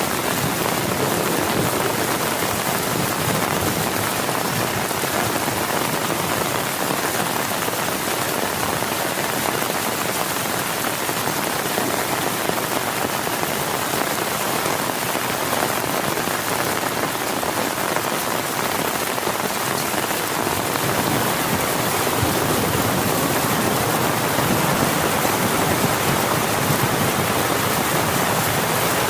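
Heavy rain falling steadily and hard, a dense even patter of drops.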